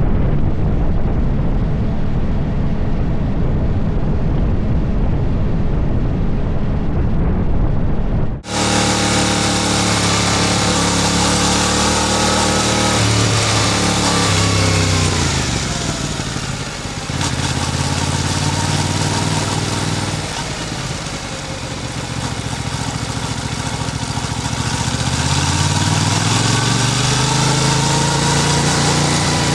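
Yamaha MT-07 parallel-twin motorcycle engine under way with a steady rumble and wind hiss. After an abrupt cut about eight seconds in, the engine note rises and falls repeatedly as the bike accelerates and slows through the gears, dropping low in the middle and climbing again near the end.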